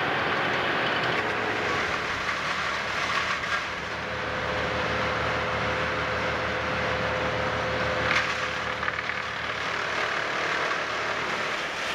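Engine of a work vehicle running steadily, with a low even throb through most of the stretch over the general noise of a busy work site.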